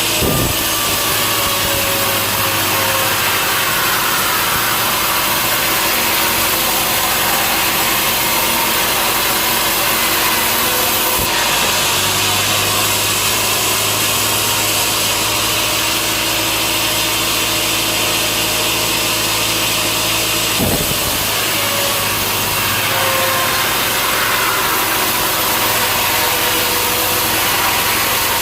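A sawmill saw cutting steadily through a large log, the machinery running without letup. There is a short knock at the very start and another about three-quarters of the way through.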